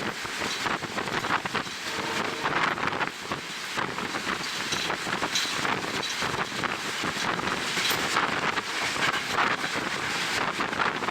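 Heavy wind buffeting the microphone at the window of a moving train, gusting unevenly, over the train's running noise.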